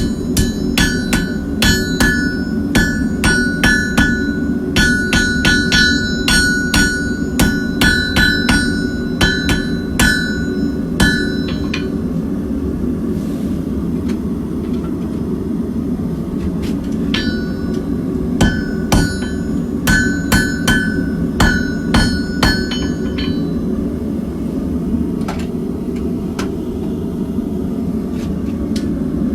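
Hand hammer striking hot tool steel on an anvil to straighten hook-tool blanks: runs of ringing blows at about two a second, broken by a pause of several seconds. A steady low rumble runs underneath.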